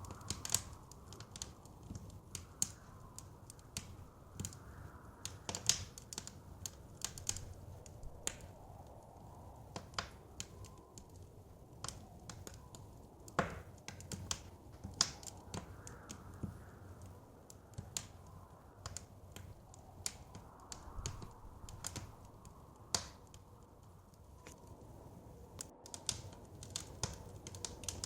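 Wood fire crackling in a fireplace: irregular sharp pops and snaps over a low steady rumble, denser near the start and end and sparser in the middle, with a few louder pops. Soft wind swells and fades behind it.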